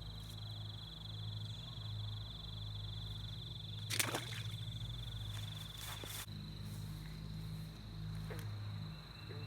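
Cicada buzzing: one steady, high, unbroken drone, over a low pulsing hum. A sharp click about four seconds in, with a few fainter ticks after it.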